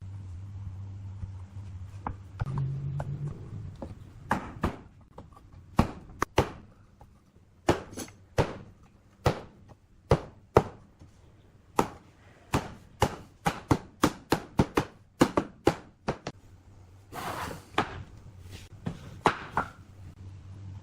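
A string of sharp knocks as a tool strikes wood, irregular, about one to two a second, with a brief scraping noise near the end.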